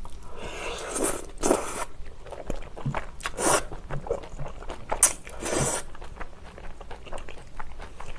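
Close-miked chewing of stir-fried sundae and pork intestines with glass noodles: wet, sticky mouth sounds and small clicks, with a few louder swells about a second in, at three and a half seconds and around five seconds.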